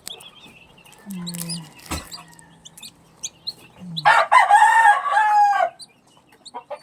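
A rooster crows once, about four seconds in, holding its pitch for over a second before falling off at the end. Around it are high, short peeping chirps and low clucks from chickens.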